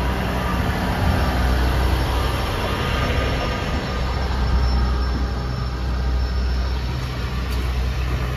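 Steady low engine rumble of passing or idling vehicles, with a faint hum.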